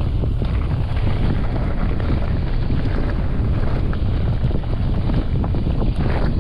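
Wind buffeting the microphone of a bike-mounted action camera while the mountain bike rolls along, a steady low rumble.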